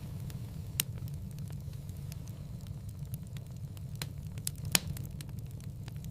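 Wood fire crackling in a fireplace: a steady low rumble of the flames with scattered sharp pops, two louder snaps about a second in and near the five-second mark.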